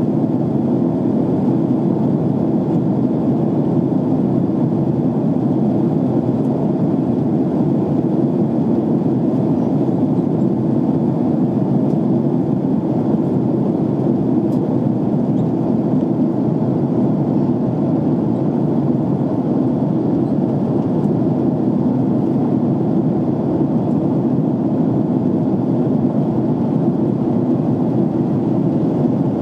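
Steady roar of an airliner's cabin in flight: engine and airflow noise, even and unchanging, deep and muffled.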